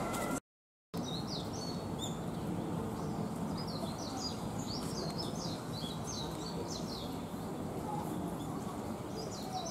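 Small songbirds chirping in quick runs of short, high, falling notes over a steady low background rumble. The sound cuts out completely for about half a second near the start.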